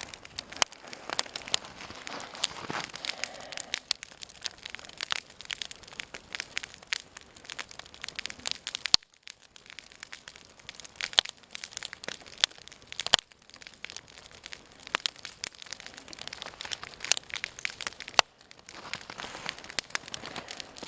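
Wood campfire crackling, with irregular sharp pops throughout as the freshly lit fire takes hold.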